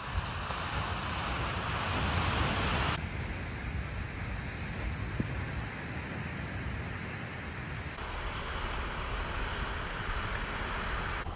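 Ocean surf and wind buffeting the microphone: a steady rushing hiss that changes abruptly in tone twice, about three and eight seconds in.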